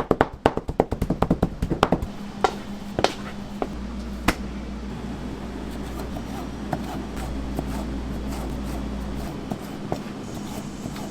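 Rapid, even tapping in food preparation, about six strikes a second, which stops about two seconds in. After that a low steady hum continues, with a few light clicks.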